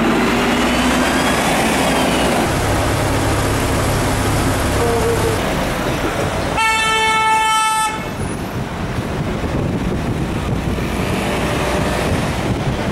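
Dense city street traffic with a Métro train running, with faint rising and falling whines in the first couple of seconds. A single horn blast lasting a little over a second sounds about halfway through, and the noise eases slightly after it.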